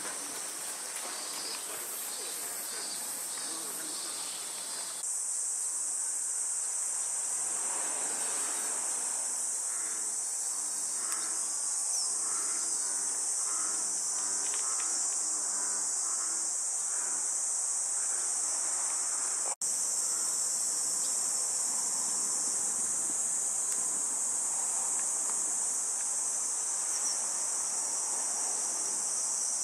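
Insects calling in a continuous high-pitched drone that grows louder about five seconds in and breaks off for an instant about two-thirds of the way through.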